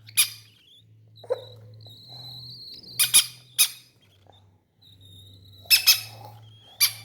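Pet parrots squawking: about six short, sharp, loud calls, mostly in pairs, with a thin high steady tone running between them.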